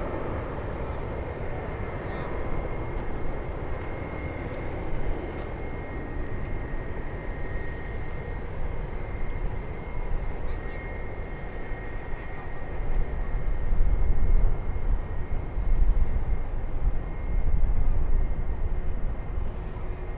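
Jet airliner engines rumbling with a steady high-pitched whine; the low rumble swells louder in the second half.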